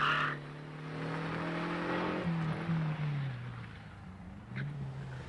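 Car engine idling steadily, revved briefly a little past two seconds in and settling back, then a short blip of the throttle near the end.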